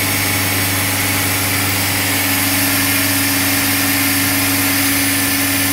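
Engine and compressor of a self-generating nitrogen servicing cart running steadily at about 2,000 RPM: a constant mechanical drone with a steady low hum and hiss.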